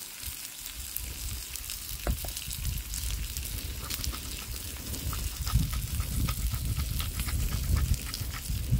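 Tomahawk steak searing in an oiled pan: a steady sizzle with scattered crackles and spits of fat.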